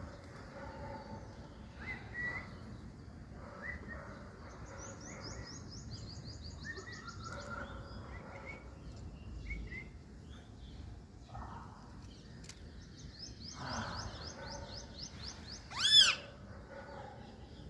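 Birds calling: scattered short chirps, two rapid high-pitched trills, and one loud sharp call near the end, the loudest sound.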